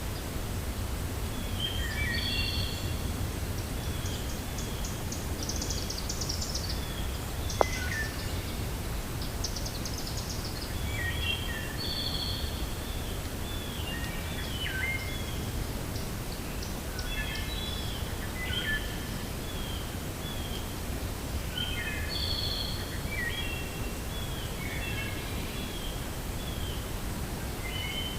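Wind blowing as a steady low rumble while several songbirds chirp in short, repeated phrases, with a few rapid higher trills. A single sharp click sounds about seven and a half seconds in.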